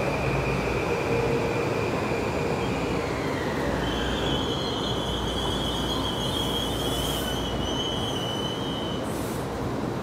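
Metro-North M8 electric multiple-unit train rolling along the track, with steady wheel-and-rail rumble. High, steady steel wheel squeal rings out above it: one tone fades about three seconds in, and a second, higher squeal runs from about four seconds to nine.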